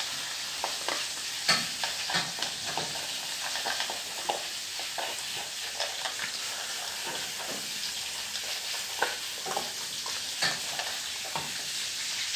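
Steady sizzle of food frying in a pan, with irregular clicks and knocks from a small dog eating out of a plastic bowl on a tiled floor.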